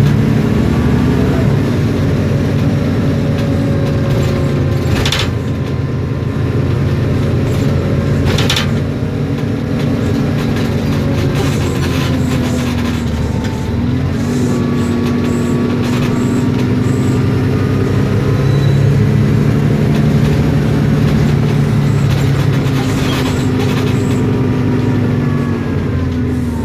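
Isobus City 1200 city bus under way: its MAN D0836 diesel engine running and the ZF Ecomat six-speed automatic gearbox and differential whining, the pitch rising and falling several times with speed and gear changes. Two sharp knocks, about five and eight and a half seconds in, from the bus's fittings rattling.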